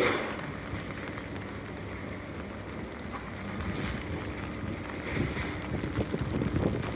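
New York City subway train running, a steady rumble with a faint hum, with wind buffeting the microphone; the rumbling grows louder with knocking in the last couple of seconds.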